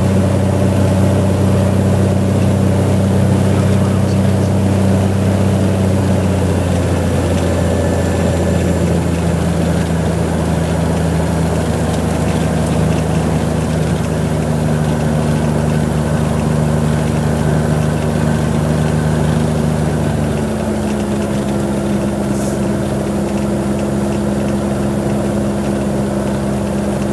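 Cessna 182 single piston engine and propeller running steadily at low power. Its pitch drops about six seconds in and shifts again about twenty seconds in as the engine speed changes.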